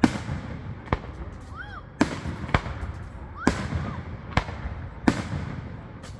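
Fireworks display: shells bursting in quick succession, about eight sharp bangs roughly a second apart, each trailing off in a rumbling echo.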